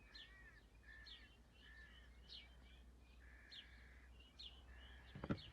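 Faint chirping of small birds: many short, high notes and brief whistled calls repeating throughout. A single sharp knock comes near the end.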